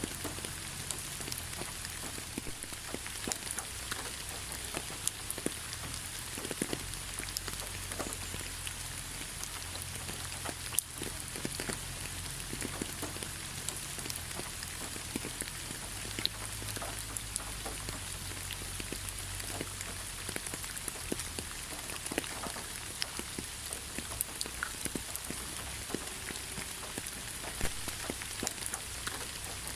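Steady rain falling in a forest: a constant hiss with many separate drops striking close by.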